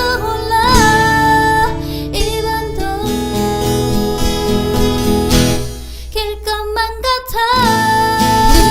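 A Korean pop song: a singer holds wavering notes over guitar and band accompaniment, with a brief stop-start break about two-thirds of the way through before the voice comes back.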